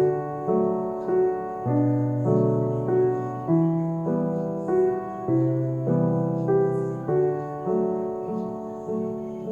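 Background piano music: a slow, calm melody, a new note or chord struck about every half second to second.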